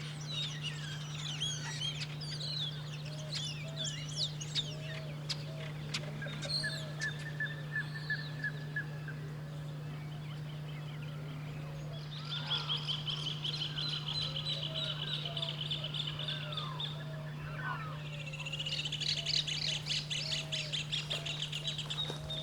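Several wild birds calling at once: chirps and whistled notes, with fast trills about a third of the way in and again through the second half, over a steady low hum.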